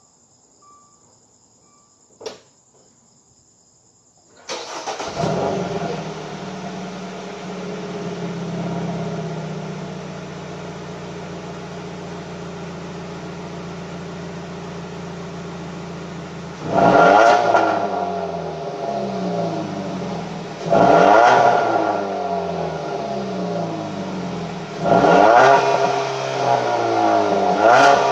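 A 2016 Dodge Dart SXT's 2.4-litre MultiAir four-cylinder with its stock exhaust: a single click about two seconds in, then the engine starts about four seconds in, settles to a steady idle, and is revved three times in the second half, each rev rising and falling back to idle.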